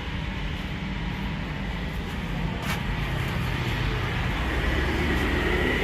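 Motor vehicle engine running nearby as traffic passes: a steady low rumble with a faint whine that grows stronger near the end.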